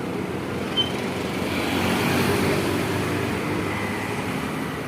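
Steady outdoor rumble, much like road traffic, that swells about two seconds in and then eases. A brief high tone sounds just under a second in.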